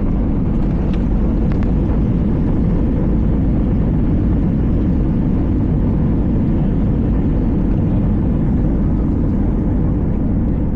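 Steady low rumble of engines and airflow heard inside the cabin of an Airbus A320 airliner.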